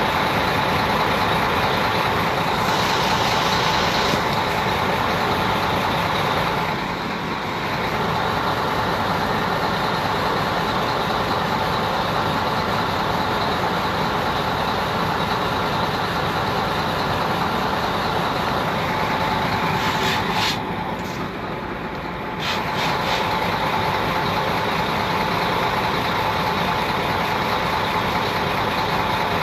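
Steady running noise of a motor vehicle, an even hiss-like roar that dips briefly twice.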